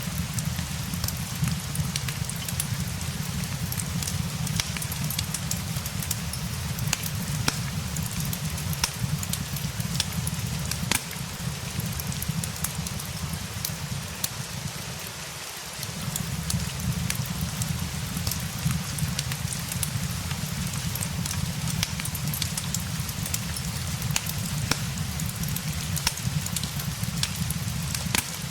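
Steady rain mixed with a crackling fireplace: an even hiss over a low rumble, with frequent small sharp crackles and pops. About halfway through, the low rumble drops out for a moment.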